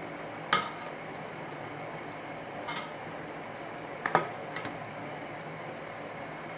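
Spoon clinking against a cooking pot while rice is layered over chicken for biryani: a sharp clink about half a second in, a lighter one near three seconds, and a quick double clink at about four seconds.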